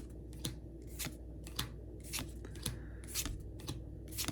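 Pokémon trading cards being slid one by one off a freshly opened pack's stack, a short papery swish about twice a second.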